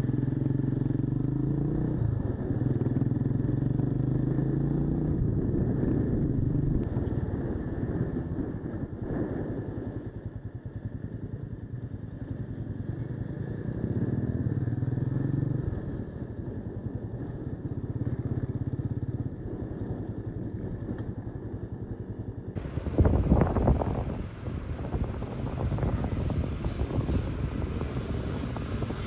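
Mash 400 cafe racer's single-cylinder engine running on the road, its pitch stepping up and down several times with throttle and gear changes. A loud, brief rumble breaks in near the end.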